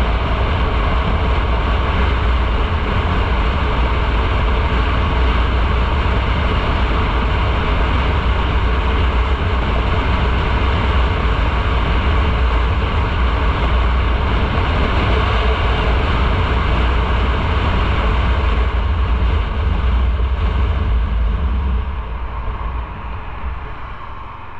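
Motorcycle under way: a steady engine drone with rushing wind and road noise. It dies down over the last few seconds as the bike slows.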